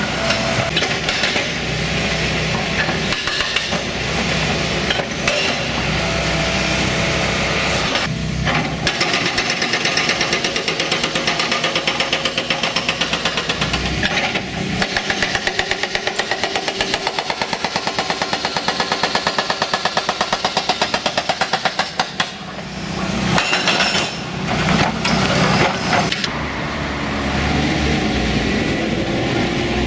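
Excavator's diesel engine running under load while its hydraulic breaker hammers at concrete in long runs of fast, even blows, with demolition clatter around it.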